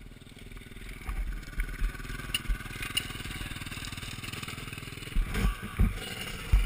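Motocross bike engine running, getting louder about a second in, with several heavy low thumps in bursts.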